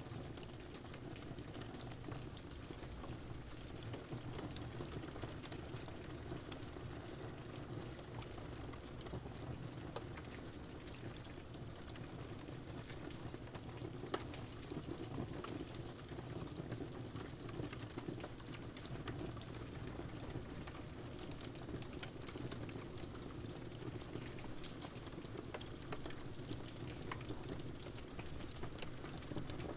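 Steady rain mixed with a crackling fireplace fire, with a few sharper pops standing out.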